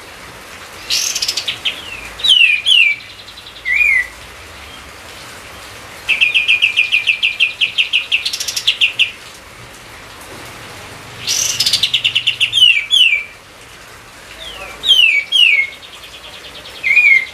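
A songbird singing in repeated loud phrases, each a fast rattling trill followed by a few sharp down-slurred whistles, about every five seconds, over a steady background hiss.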